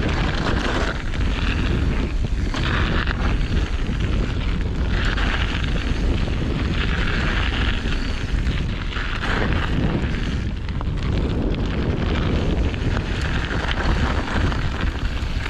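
Wind buffeting the microphone of a camera on a mountain bike riding down a jump trail, a steady heavy rumble, with the hiss of tyres rolling over the dirt swelling and fading.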